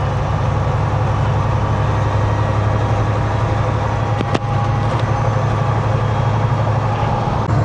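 Semi truck's diesel engine and road noise heard inside the cab while driving: a steady, low drone, with one brief click a little over four seconds in.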